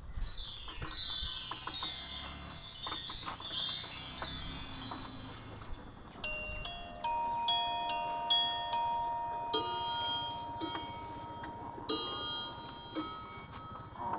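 Chimes on a sound wall played one by one: first a shimmering run of many high ringing notes for about five seconds, then about a dozen separate strikes on metal chimes, each ringing on in clear bell-like notes.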